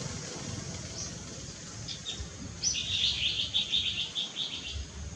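Birds chirping: a few short, high chirps, then a quick run of chirps a little past halfway through.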